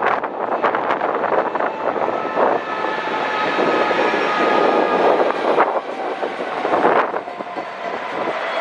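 A train moving along the platform: the wheels clatter at first, then steady running noise with a whine of several held tones over it, swelling louder twice near the end.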